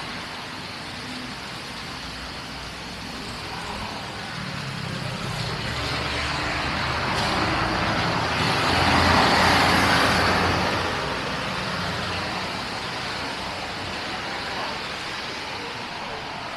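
A road vehicle passing close by on a city street, the noise swelling to a peak about nine seconds in and then fading, over steady traffic noise.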